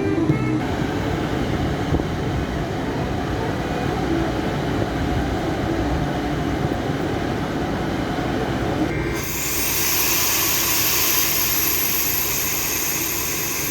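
A train rolling on rails with a steady low rumble; about nine seconds in the sound changes suddenly to a loud high hiss with thin high-pitched tones.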